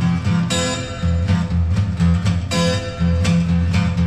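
Live music: a guitar strummed about twice a second over sustained deep bass notes, with no singing.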